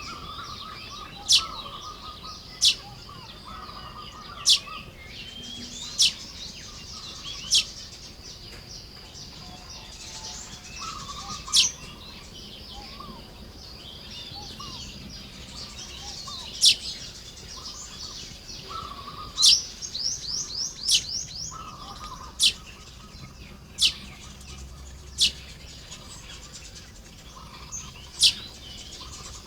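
Baya weavers calling while building nests: sharp, loud chip notes repeated every second or two, with softer lower buzzy notes between them and a quick chattering run of rising notes about twenty seconds in.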